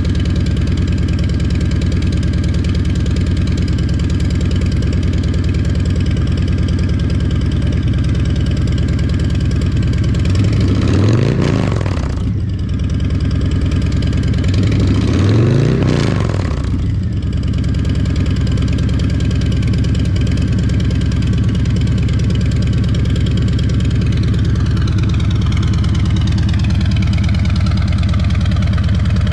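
2020 Harley-Davidson Fat Boy's Milwaukee-Eight 114 V-twin idling after a cold start through a Two Brothers Racing 2-into-1 shorty turnout exhaust, revved twice in short throttle blips around the middle. Near the end the idle speed slowly drops as it settles.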